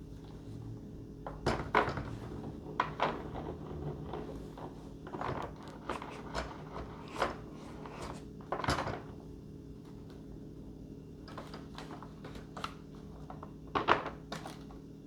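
Irregular knocks and clicks of plastic and foam model-airplane parts being handled and fitted together, a few louder ones among them, over a steady low hum.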